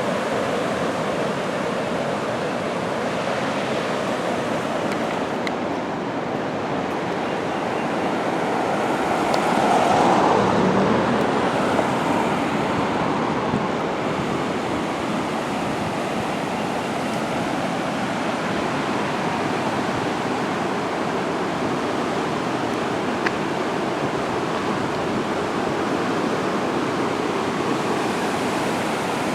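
Fast floodwater of a river over its banks rushing and churning in a steady wash, swelling a little louder about ten seconds in.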